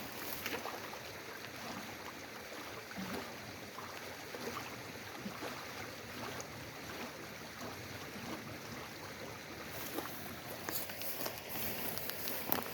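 Creek water running, a steady rushing flow, with a few light clicks near the end.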